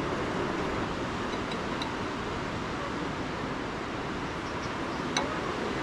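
Steady rushing background noise, with a couple of faint clicks.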